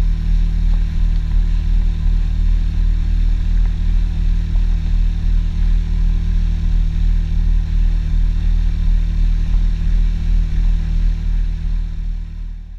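An engine running at a steady speed: a loud, even low drone that holds one pitch and fades out near the end.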